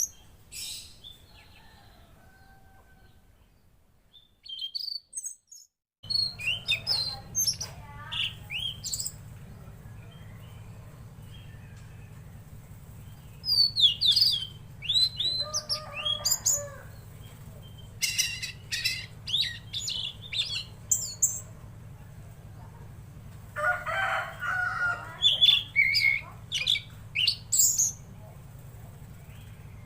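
Tledekan laut songbird singing: bouts of rapid, high chirps and short trills of a few seconds each, with pauses between. A steady low hum runs under the song from about six seconds in.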